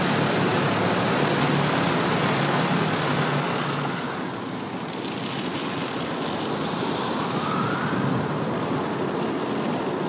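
Automatic car wash machinery working over the car, heard from inside the cabin: a loud, steady rush that eases off about four seconds in, with a faint rising whine a little later.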